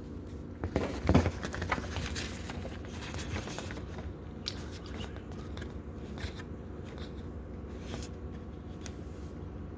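Rustling and scattered light clicks, with a louder knock about a second in, over a low steady hum.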